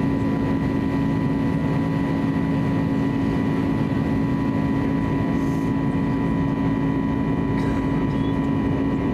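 Steady in-cabin drone of an Airbus A320neo in flight: airflow noise with the even hum of its CFM LEAP-1A turbofan engines, constant throughout.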